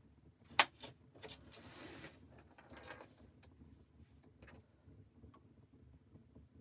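A sharp click or knock about half a second in, then a few softer knocks and a short rustle or scrape, like objects being handled.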